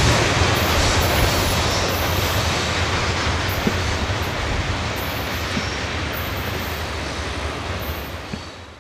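Freight train rolling away after its last car has passed, a steady rumble and rail noise slowly getting fainter, then fading out near the end.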